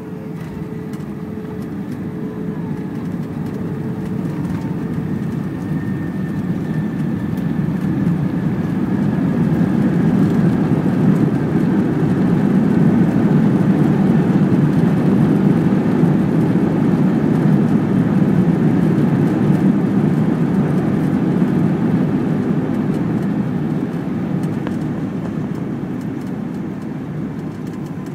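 Airbus A320's jet engines heard through the cabin: a steady rushing run that builds to a peak around the middle and then eases off. This is typical of reverse thrust being applied and then backed off during the landing roll.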